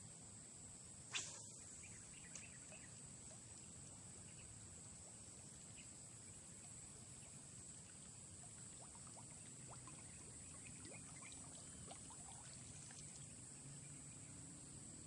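Near silence, with a faint steady high-pitched insect drone throughout. A single sharp click about a second in, and a fainter one a second later.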